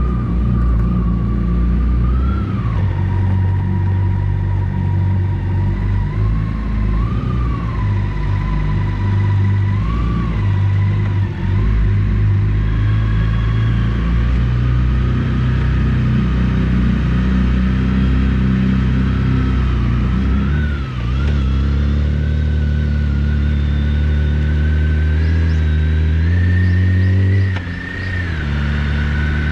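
BMW K1600GTL's inline-six engine running through an aftermarket Hattech muffler under way, a steady engine note that shifts in pitch about twenty seconds in and dips briefly near the end.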